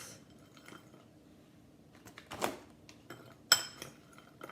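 A few scattered clinks of a bowl and utensil as frozen berries are put back out of the bowl. The loudest clink, about three and a half seconds in, rings briefly.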